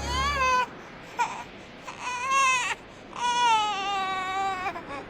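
A baby crying: three drawn-out wails, the last and longest sliding slowly down in pitch, with short whimpers between them.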